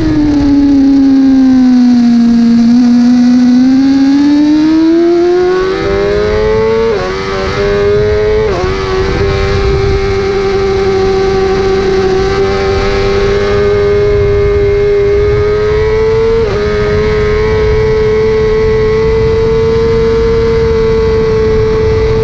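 A 1000 cc racing superbike's engine at race pace. The revs fall under deceleration for the first few seconds, then climb, with quick gear-change dips about 7 and 8½ seconds in. After that they hold high and steady, with one more shift near the end.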